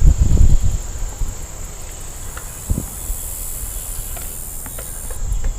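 Wind buffeting the microphone of a moving bicycle, strongest in the first half-second, then settling into a steady low rumble of air and tyres. A thin, steady high-pitched tone runs underneath, with a few faint ticks.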